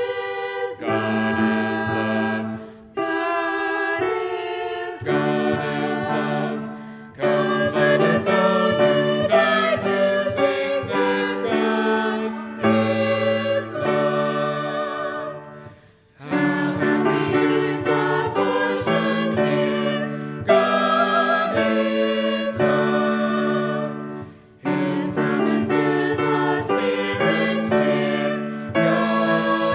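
A small group of voices singing a worship song with instrumental accompaniment, in sustained phrases with brief pauses between them.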